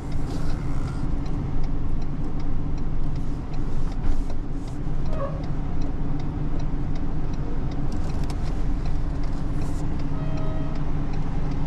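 Motor vehicle engine idling steadily, with a faint, regular ticking over it.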